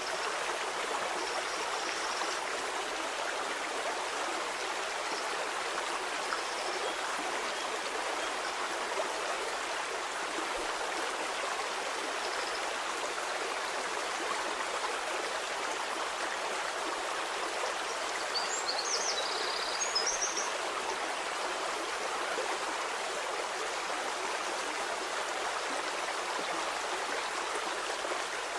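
Stream water flowing steadily over stones, an even rushing babble. A few faint, short, high chirps sound over it, clustered about two-thirds of the way in.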